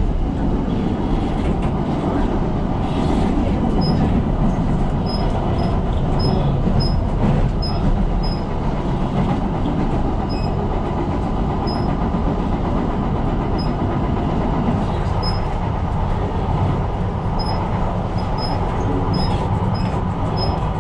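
Tyne & Wear Metro train running along the line, a steady rumble of wheels on rail and traction heard from the cab, easing a little about two-thirds of the way through.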